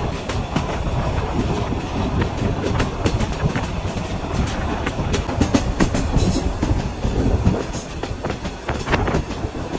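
Korotoa Express intercity passenger train running at speed between stations: a steady rumble of the coaches with irregular sharp clicks and knocks of the wheels over the rails, several coming close together in the second half.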